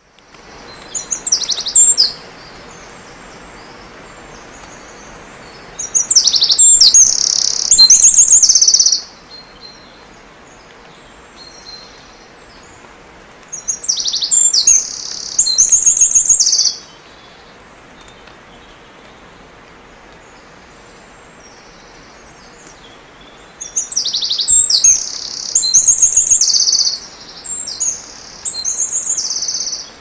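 Songbird singing in bouts of rapid, high chirping phrases, four bouts a few seconds apart, over a steady background of outdoor noise.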